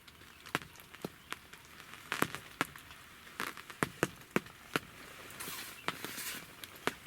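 Irregular water drops ticking on a surface close to the microphone, two or three a second, with a brief soft rustle around six seconds in.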